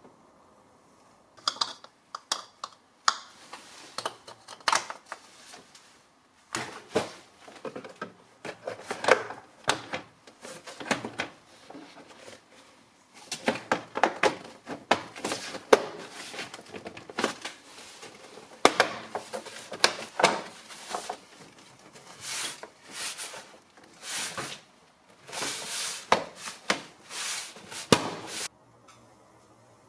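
Irregular clicks, taps and knocks in a small room, with a denser run of scraping, rattling noise near the end.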